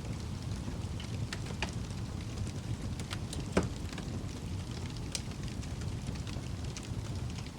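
Wood fire crackling in a fireplace: a steady low rumble of the flames with scattered sharp pops, the loudest about three and a half seconds in.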